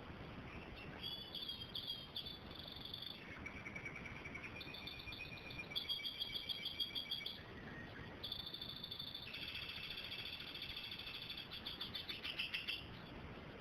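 A bird singing a series of rapid, high-pitched trills, phrase after phrase with short breaks, stopping near the end.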